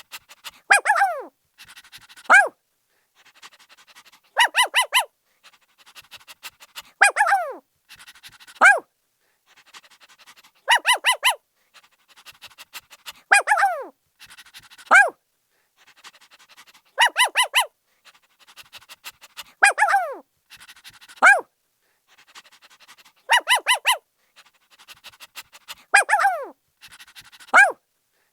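Puppy barking in quick bursts: runs of four or five high yips, each followed by a yelp that falls sharply in pitch, with the same pattern coming back every three seconds or so.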